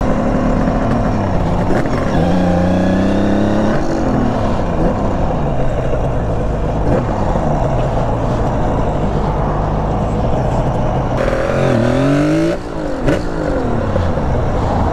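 Kawasaki 350SS air-cooled two-stroke triple engine running on the move, its note rising and falling with the throttle and gear changes, with a burst of revs about twelve seconds in, over steady wind rush.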